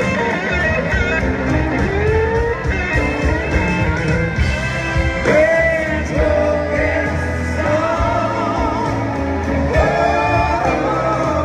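Live blues-rock band playing, led by a wavering, bending melody line over bass and drums.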